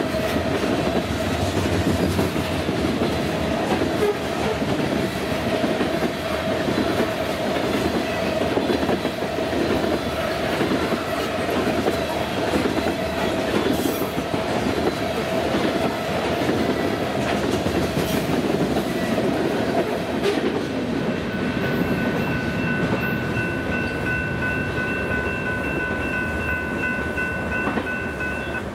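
Loaded grain train's freight cars rolling past with a steady clatter of wheels over the rails and a steady tone ringing over it for most of the passage. For about the last seven seconds a different steady tone of several pitches sounds over the cars.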